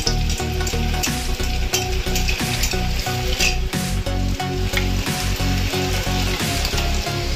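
Spring roll sizzling as it pan-fries in hot oil in a metal kadhai, with frequent short knocks and scrapes of a spatula against the pan as the roll is moved and turned.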